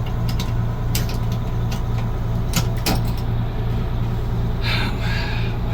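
1988 Amertek 4x4 fire truck engine running steadily, with a few sharp clicks and a short hiss of air near the end.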